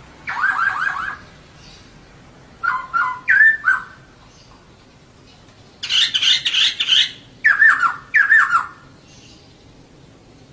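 Female poksay (laughingthrush) calling in four short bursts of quick, repeated whistled and squawky notes, with pauses between the bursts.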